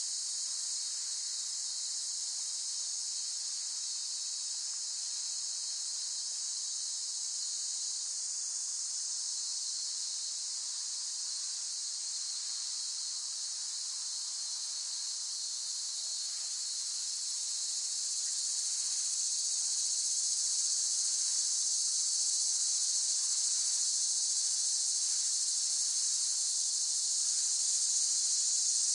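Cicadas calling in a steady high-pitched drone, growing a little louder about two-thirds of the way through.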